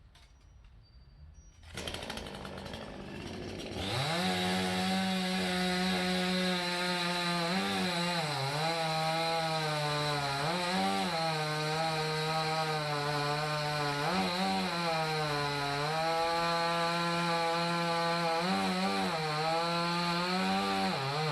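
Salem Master two-stroke chainsaw revving up to full throttle about four seconds in and cutting through hard maple, its engine pitch dipping and recovering several times as the chain loads up in the cut.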